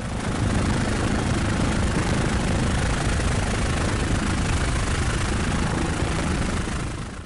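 Helicopter engine and rotor noise: a steady, dense rumble with a fast low pulsing and hiss above it.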